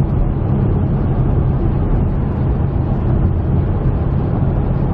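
Steady road and engine rumble heard from inside a moving vehicle's cabin while cruising on the highway.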